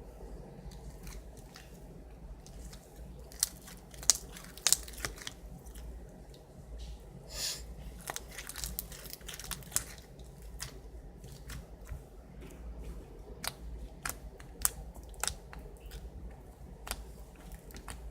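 Foam ball slime being squeezed and pressed by hand, its foam beads crackling in irregular sharp clicks and pops.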